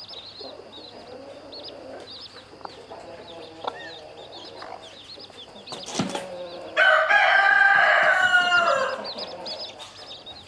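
Chicks peeping rapidly and a hen clucking low. About seven seconds in, a rooster crows once, a loud crow of about two seconds that falls in pitch at the end, just after a sharp knock.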